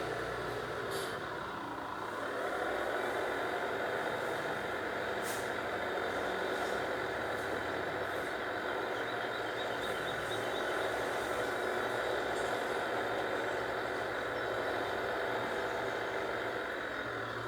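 An engine or machine running steadily at a constant pitch, then starting to die away at the very end.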